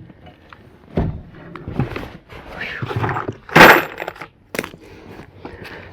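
Irregular knocks and clattering of hand work, with one loud harsh crash about three and a half seconds in.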